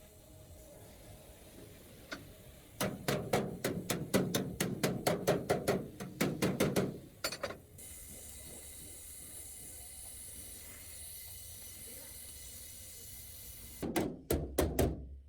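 Fast run of even mechanical clicks, about five a second for some four seconds, like a ratchet being worked, then a steady hiss, then a few more clicks near the end.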